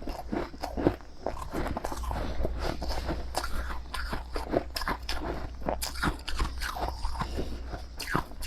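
Close-up crunching and chewing of powdery freezer frost (snow ice), with quick, irregular crunches several times a second.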